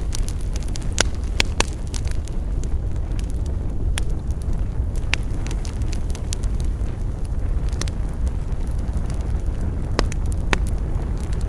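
Wood campfire crackling, with sharp pops every second or so over a steady low rumble.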